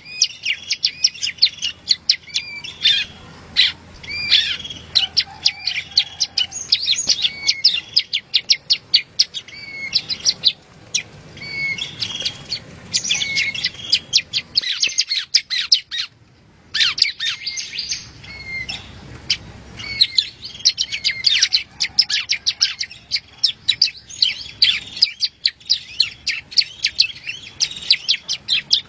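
Yellow-bellied prinia (prenjak rowo) singing: a dense, rapid run of sharp high chirps and trills that breaks off briefly a little past halfway before going on.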